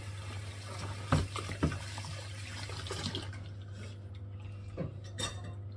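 Water running from a tap into a sink, with a few sharp knocks, cutting off about three seconds in. A steady low hum underneath.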